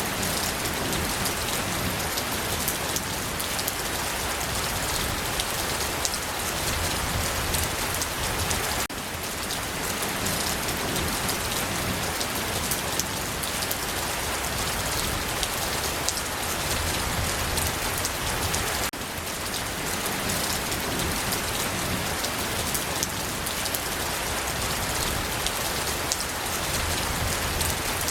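Steady rain falling, an even hiss with fine drops pattering through it. The level shifts slightly about every ten seconds.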